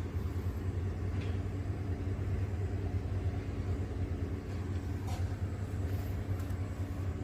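A steady low rumble with a hum, with two faint clicks about one second and five seconds in.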